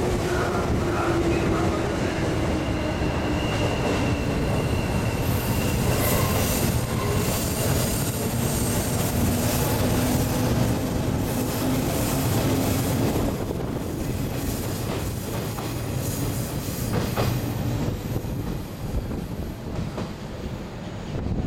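JR 117 series electric train running along the platform: a motor whine falling in pitch over the first few seconds, then wheels clacking over rail joints with some squeal as the cars roll past, growing quieter in the second half as the train moves off.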